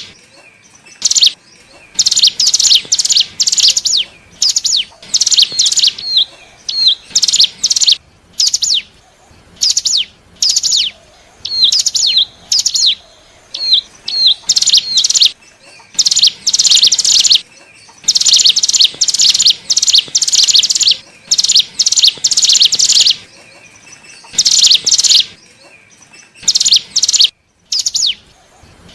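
Hill prinia (ciblek gunung) lure recording: bursts of rapid, sharp high chirps repeated over and over with short pauses between them, some phrases made of short rising notes.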